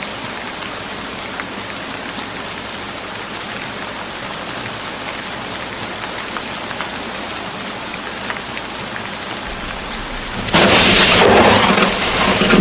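Steady rain falling, then about ten seconds in a sudden loud crack of thunder that goes on rumbling over the rain.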